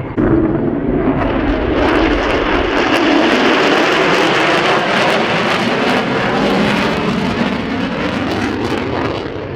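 An F-35A Lightning II fighter jet makes a loud pass with its single Pratt & Whitney F135 turbofan. The jet noise is strongest through the middle, with a tone in it that falls and then rises, and it fades a little near the end.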